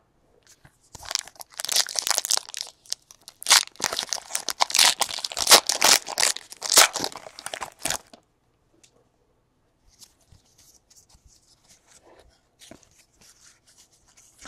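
Plastic wrapper of a trading card pack being torn open and crinkled from about a second in until about eight seconds in, followed by faint light ticks of cards being handled.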